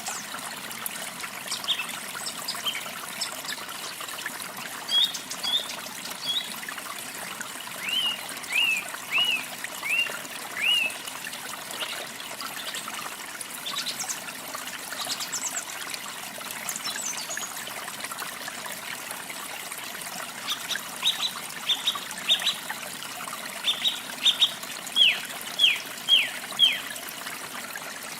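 Small birds chirping over a steady trickle of running water. About eight seconds in a bird gives a run of five short down-slurred notes, and near the end comes a quicker cluster of chirps.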